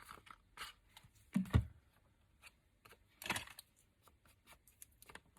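Small tabletop handling sounds of craft work: scattered light taps and clicks, with a dull knock about one and a half seconds in and a short rustling scrape around three seconds in.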